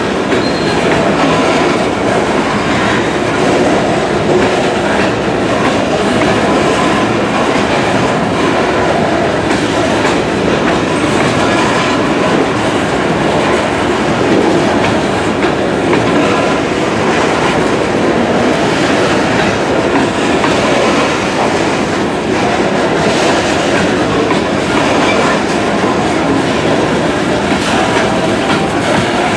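KCS freight train of loaded cars rolling past, a steady loud rumble with the clickety-clack of wheels over the rail joints.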